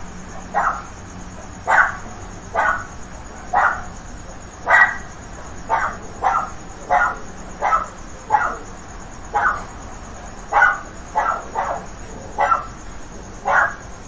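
A dog barking in a steady series of short, sharp barks, about one a second.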